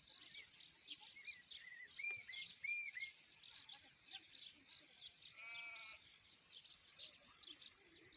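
A chorus of small songbirds chirping and trilling without pause, with a few short whistled notes early on. Roughly halfway through comes a single brief bleat from a farm animal.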